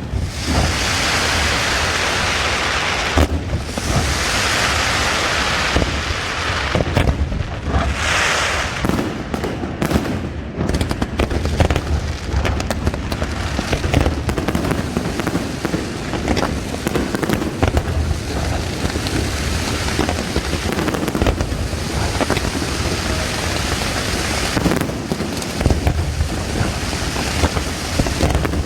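Fireworks going off: a dense, unbroken crackle of many small bursts over a low rumble of booms.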